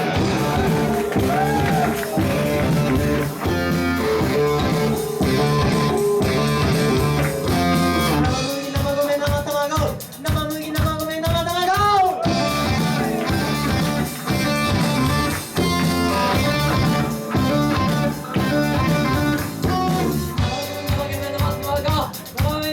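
A live band playing a song: guitar and drum kit with a steady beat, and a sung or lead line that bends in pitch near the start and again partway through.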